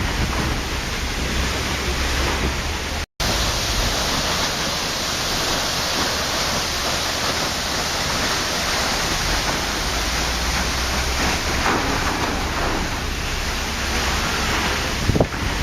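Waterfall: a steady rush of falling water that briefly cuts out to silence about three seconds in.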